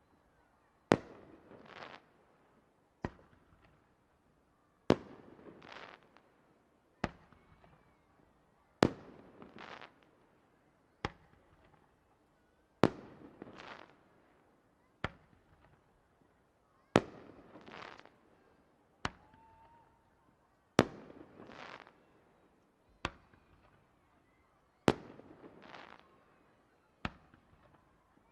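Aerial firework shells bursting in a steady rhythm, a sharp bang about every two seconds. Every other bang is louder and trails off in about a second of crackle.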